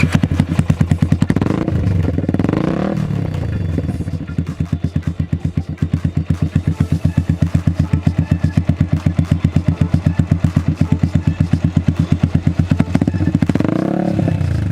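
Yamaha R15's single-cylinder engine through a GPR full-system aftermarket exhaust, idling with an even, pulsing beat. The throttle is blipped at the start, revved briefly about two seconds in, and revved again near the end.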